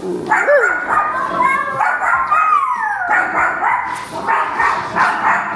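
Small dog barking and yapping repeatedly in quick succession.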